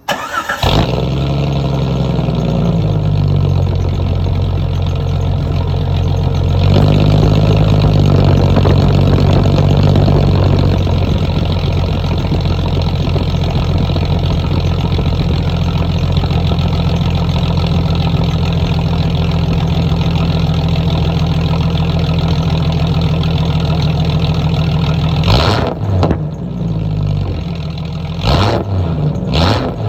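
1995 Jeep Cherokee XJ's 4.0-litre inline-six, its muffler replaced by a straight pipe, starting up and settling from a fast idle into a steady, loud idle. The throttle is blipped a few times near the end, the revs rising and falling quickly.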